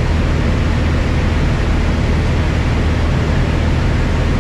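Piper Cherokee 180's four-cylinder Lycoming engine and propeller in steady cruise-power drone, heard inside the cabin, with a strong low hum and even rushing noise. The engine is new and in its break-in hours.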